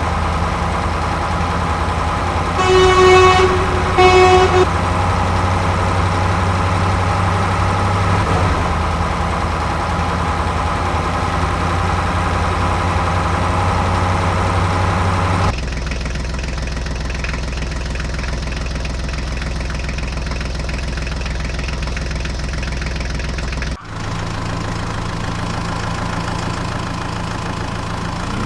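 Vehicle engine running steadily, with two short horn honks about three and four seconds in. About halfway through, the engine sound switches abruptly to a different, lower-sounding engine, which cuts out for a moment near the end.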